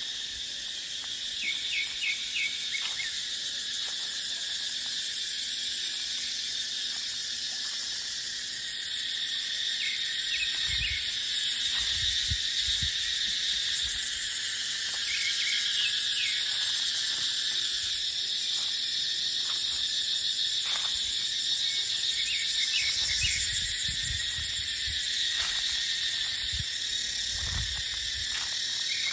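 Cicadas buzzing in a dense, steady chorus, with short high chirps here and there. Wind gusts rumble on the microphone around the middle and again near the end.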